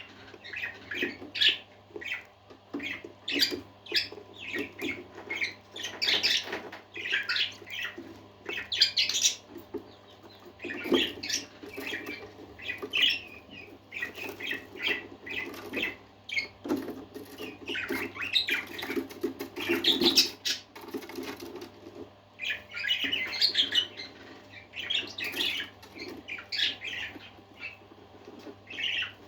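A flock of pet parakeets chirping and chattering, with many short calls following one another without a break. A faint steady hum runs underneath.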